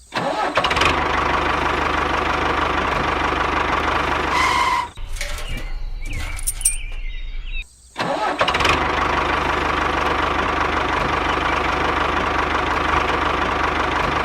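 An engine running steadily, with short breaks about five and eight seconds in.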